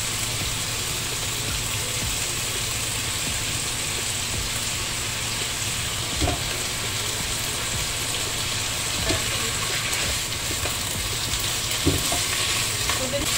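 Chicken and green vegetables sizzling steadily in a frying pan as they are stir-fried, with a few light knocks of the spatula against the pan.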